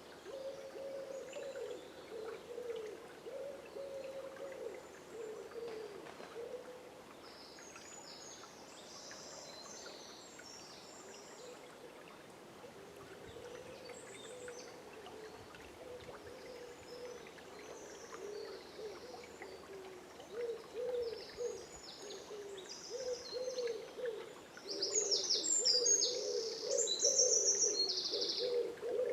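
A bird giving low hooting calls over and over, growing louder near the end, while small songbirds chirp high above. Beneath them is the faint hiss of a flowing river.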